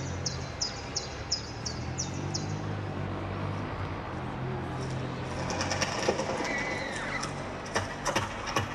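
A bird calling repeatedly, short high falling notes about three a second, over a low steady hum; in the second half, a scatter of clicks and knocks with a brief whistled glide.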